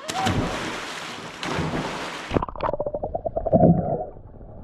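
Stream water splashing, then an abrupt change about halfway through to a muffled bubbling and gurgling heard underwater, with rapid irregular clicks.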